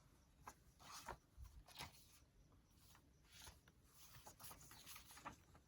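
Faint, scattered rustles and light taps of paper and craft pieces being handled and moved about while searching for a misplaced piece.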